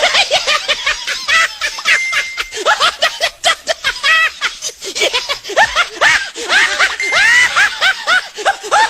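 High-pitched laughter and giggling in rapid, rising-and-falling bursts, with scattered sharp clicks among them.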